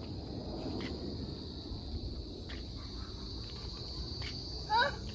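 Insects, crickets by the sound of it, keeping up a steady high trill over a low rumble. Near the end a brief high-pitched voice call rises and falls.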